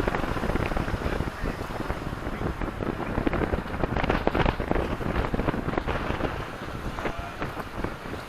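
Wind buffeting the microphone in irregular gusts over a low, steady rumble.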